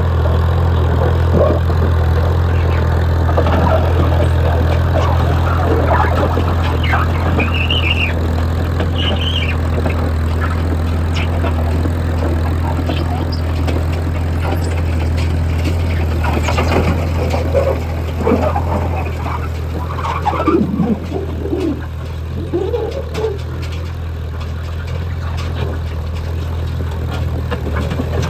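McCormick-Deering W-4 tractor's four-cylinder engine running with a steady, unchanging low note during a tractor pull, a little quieter over the last several seconds.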